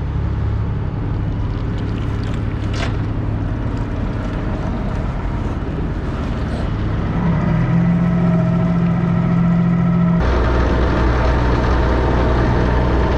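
Heavy diesel machinery running steadily, with a droning tone added for a few seconds and the engine noise stepping up sharply and staying louder about ten seconds in.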